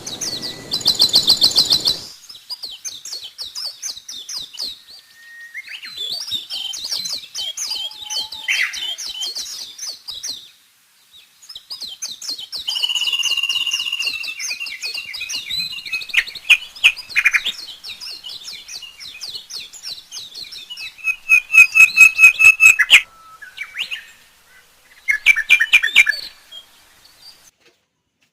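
Birds chirping and chattering in quick runs of high notes and trills, in bursts separated by short pauses.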